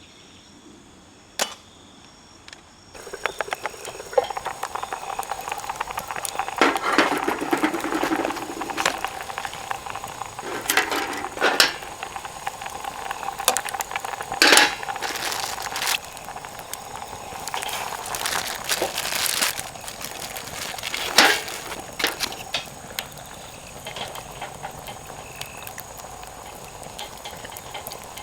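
Insects chirping faintly at first. About three seconds in, this gives way to a wood fire burning in a compact fire pit, crackling with irregular sharp pops and a steady hiss.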